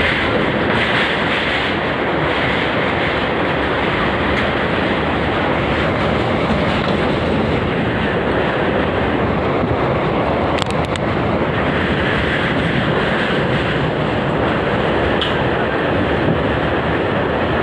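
Steady rushing noise of wind on the microphone over the running of a moving vehicle, with a brief crackle near the middle.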